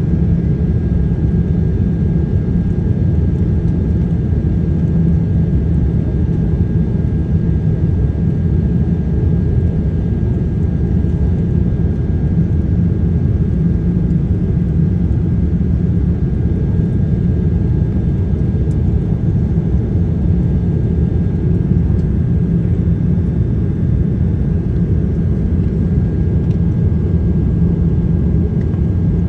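Steady low rumble of cabin noise inside a Boeing 787-9 airliner, with a faint steady high tone over it.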